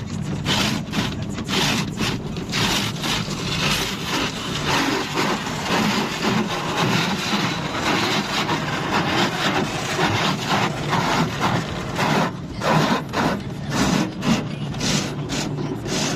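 Rotating brushes of an automatic car wash scrubbing and slapping against a car's body in continuous, uneven swishing surges, over a steady low hum of machinery.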